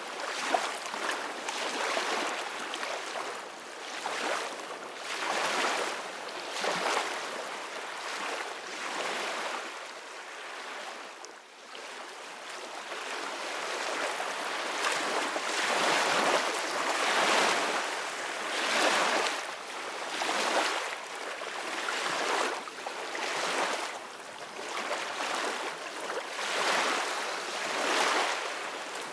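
Ocean waves washing in, a steady rush that swells and ebbs every couple of seconds, with a brief lull about eleven seconds in.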